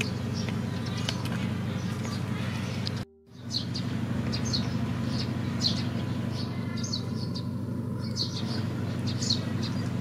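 Small birds chirping in short, scattered calls over a steady low hum; the sound drops out completely for a moment about three seconds in.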